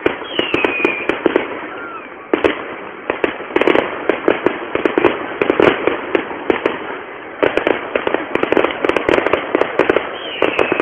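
Aerial fireworks bursting with dense rapid crackling, coming in three waves with short lulls between. A high whistle falls in pitch near the start and again near the end.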